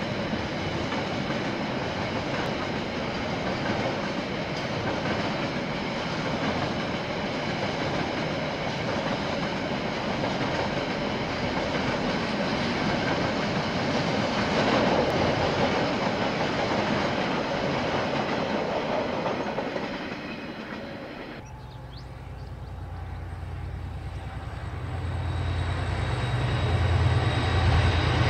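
Freight train wagons rolling past with a steady rumble of wheels on rail, fading away. After an abrupt break about two-thirds of the way in, the deep engine rumble of approaching KiwiRail diesel locomotives builds steadily louder.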